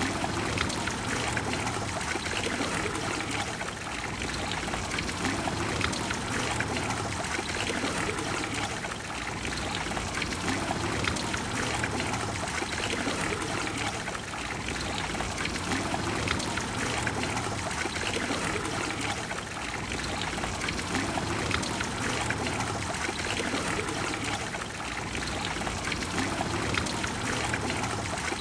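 Trevi Fountain's water pouring and splashing steadily into its basin, a dense even rush that swells and eases slightly every few seconds.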